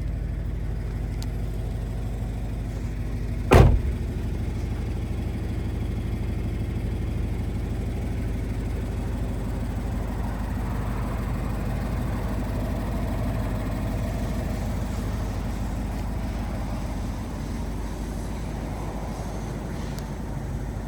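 Turbocharged Scion FR-S's flat-four boxer engine idling steadily, with one loud sharp thump about three and a half seconds in.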